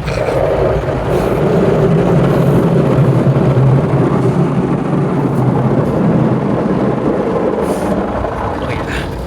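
Automatic car wash's large rotating brushes scrubbing over the car, heard from inside the cabin as a loud steady noise that builds over the first couple of seconds and eases off near the end.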